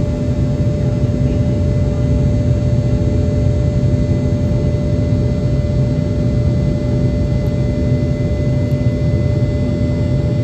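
Boeing 717's tail-mounted Rolls-Royce BR715 turbofans heard from inside the cabin during the climb after takeoff: a loud, steady deep hum with a steady whine over it.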